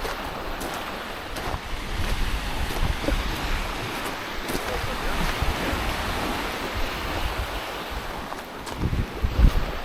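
Small waves washing over a rocky shoreline, with gusts of wind buffeting the microphone, strongest near the end.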